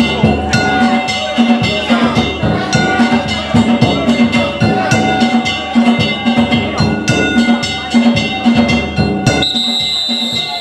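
Danjiri festival music: taiko drums and ringing kane gongs struck in a fast, steady rhythm. A high steady tone joins near the end.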